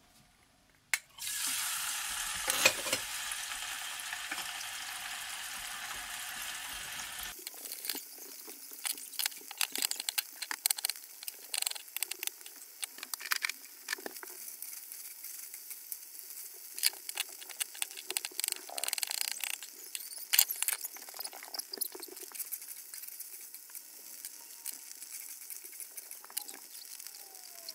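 Tofu cubes deep-frying in hot oil: a loud steady sizzling hiss starts suddenly about a second in. A quarter of the way through it changes to a lighter sizzle full of crackling pops.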